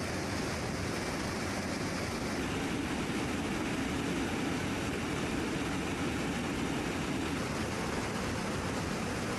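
Steady aircraft noise: an even, unchanging rushing sound with no distinct engine tone.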